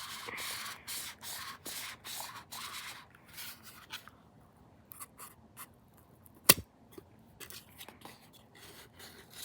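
Repeated rubbing strokes, about two a second, for the first three seconds. Then scattered light taps and one sharp click about six and a half seconds in.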